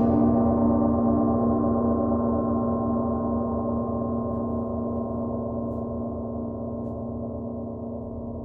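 Gong struck once right at the start, then ringing on with many overtones and slowly dying away.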